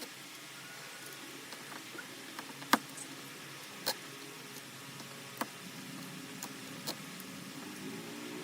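A few sharp, irregular clicks and taps, the loudest a little under three seconds in, over a faint steady background hum.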